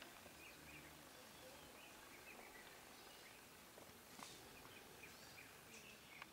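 Near silence: faint, scattered bird chirps over quiet natural ambience, with a soft click about four seconds in.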